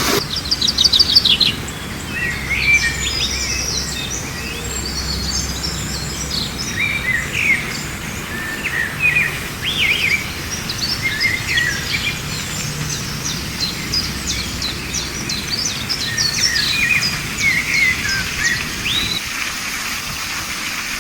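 Several small birds chirping and singing: a fast trill of repeated high notes just after the start, then scattered chirps and short whistled phrases throughout, over a steady low outdoor rumble.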